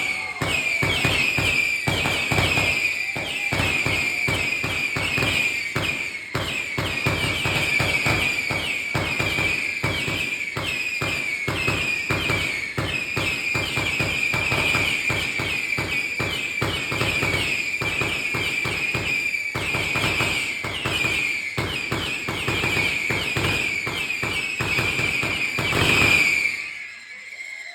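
A fast, continuous barrage of firework explosions, bang after bang with no gaps, and a shrill whistling running over them. The barrage builds to its loudest burst near the end and then cuts off suddenly.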